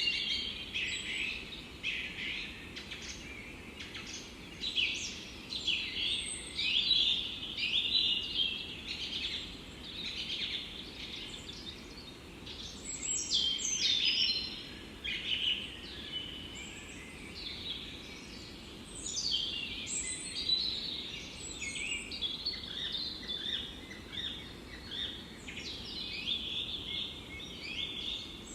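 Songbirds singing in chorus, dense overlapping chirps and trills with no pauses, over a soft, steady background hiss.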